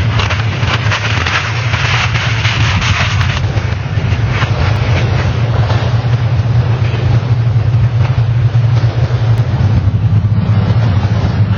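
An engine running steadily: a constant low drone under a loud rushing noise, with no change in pitch.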